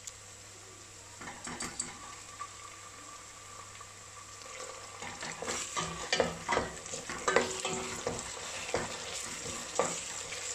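A wooden spoon stirs and scrapes in a stainless steel pot while sliced onions, green chillies and freshly added ginger-garlic paste sizzle in oil. The stirring gets busier about halfway through, with frequent knocks and scrapes of the spoon against the pot.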